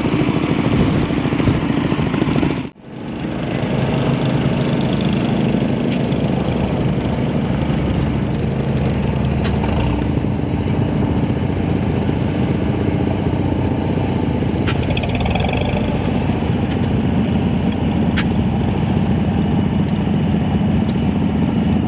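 McCormick-Deering orchard tractor's four-cylinder engine running steadily at low speed, cutting out abruptly for a moment about three seconds in and coming straight back.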